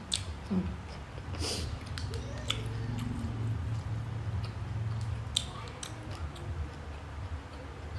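A person chewing and biting food close to the microphone, with scattered sharp wet mouth clicks.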